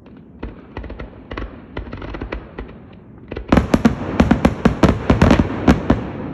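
Fireworks going off in a string of sharp bangs, spaced at first, then a louder, quicker barrage of cracks from about halfway through.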